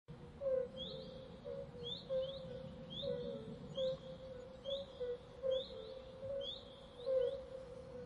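Forest ambience: a bird repeating short rising chirps about once a second, over a steady low tone with soft regular bumps and a faint rumble.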